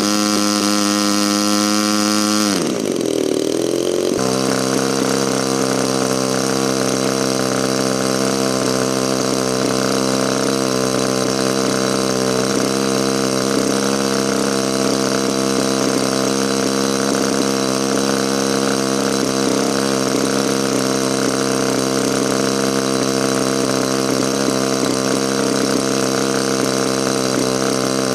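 DLE 35RA single-cylinder two-stroke gasoline engine on a model aeroplane, running on a test startup. It runs at a higher speed, drops sharply in pitch as it is throttled back about two and a half seconds in, then runs steadily at the lower speed.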